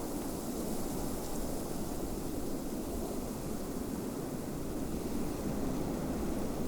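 Snowstorm wind blowing steadily, an even rushing noise with no gusts or breaks.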